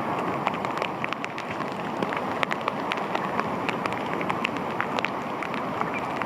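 Water: a steady rushing noise with many small, irregular splashing ticks.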